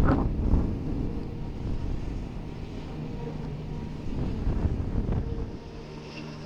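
Blizzard wind buffeting the microphone in an uneven low rumble, with a sharp bump right at the start.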